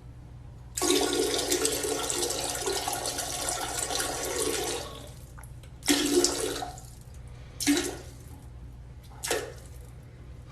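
Water rushing for about four seconds, followed by three shorter gushes of the same sound.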